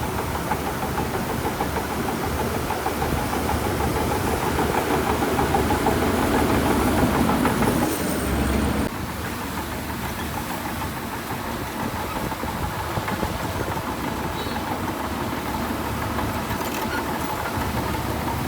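Heavy diesel earthmoving machine engine running. It gets louder and busier over the first eight seconds or so, then drops abruptly to a steadier, lower running sound.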